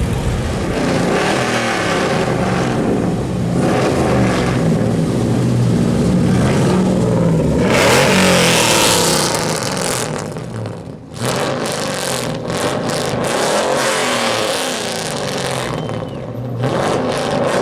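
Cars cruising past with their engines running and revving, one after another. The loudest pass comes about eight seconds in, followed by a brief lull.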